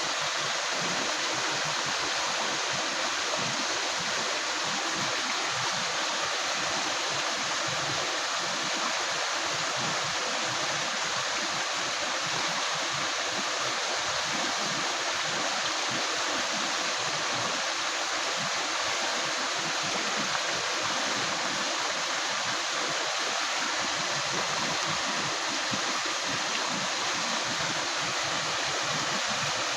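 Shallow river water running and gurgling steadily over stones.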